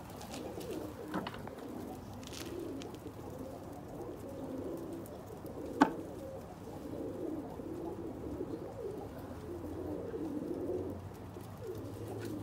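Domestic pigeons cooing, many overlapping coos running on without a break, with one sharp knock a little before halfway.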